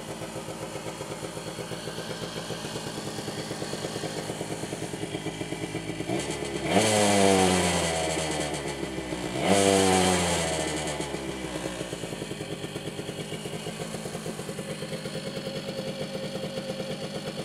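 1984 Yamaha Tri-Moto three-wheeler engine idling with an even pulse, just started from cold. It is revved twice, about seven and ten seconds in, each time rising sharply and then dropping back to idle over a couple of seconds.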